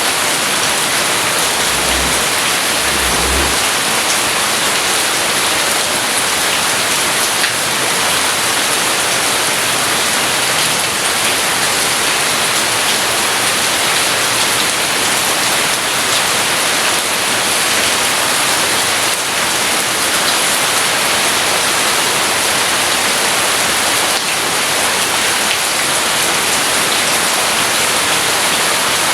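Steady, heavy rain falling and pattering on surfaces, an even unbroken hiss. Two brief low thuds come about two and three seconds in.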